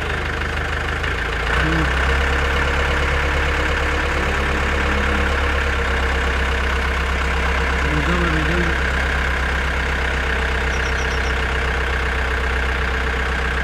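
Steady engine idling, a low even hum that gets louder about a second and a half in.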